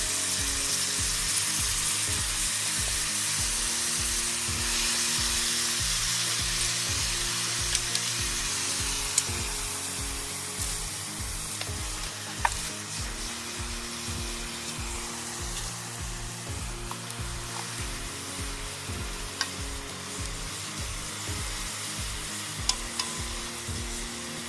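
Onions frying in olive oil in an aluminium mess-kit pan, a steady sizzle with a few sharp ticks of stirring. Background music with a slow regular beat runs underneath.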